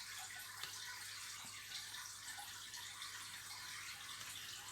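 Quiet room tone: a faint steady hiss with a low hum underneath and a few faint soft ticks.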